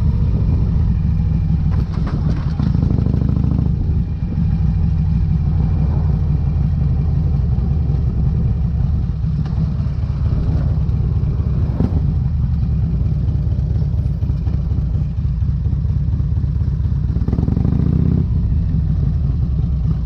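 2008 Harley-Davidson Electra Glide's V-twin running through Vance & Hines exhaust pipes, a steady deep rumble that swells briefly twice, a few seconds in and near the end.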